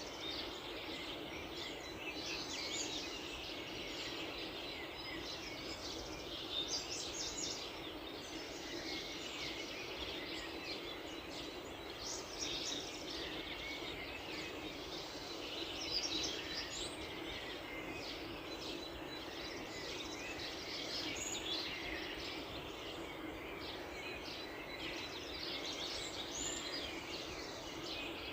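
Many small birds chirping and singing at once, short overlapping calls and trills, over a steady low background noise.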